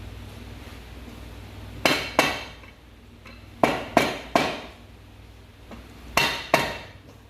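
Hammer tapping the crankshaft and crankcase half of a Bajaj Pulsar AS 150 engine to seat them into new, tight main bearings: seven sharp metallic knocks in three quick groups of two, three and two.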